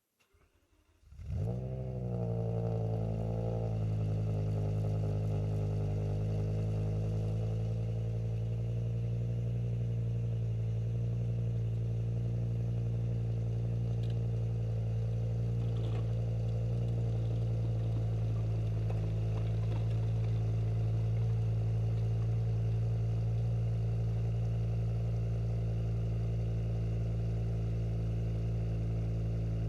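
BMW E60 M5's 5.0-litre V10 starting up about a second in, flaring briefly and settling into a steady idle through an aftermarket exhaust.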